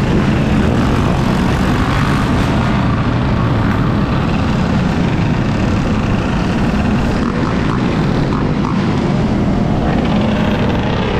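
Steady rush of wind on an action-camera microphone while riding an electric Sur-Ron dirt bike at speed, with tyre and road noise under it. A faint rising engine note comes in near the end.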